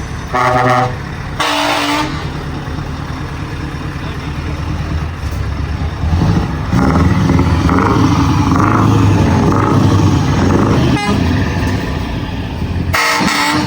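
Truck horns blasting twice in quick succession, then once more near the end, over the steady rumble of large truck engines running, which grows louder about halfway through.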